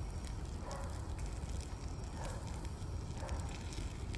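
A dishwasher burning in an open fire: a steady low rumble with scattered crackles and pops throughout.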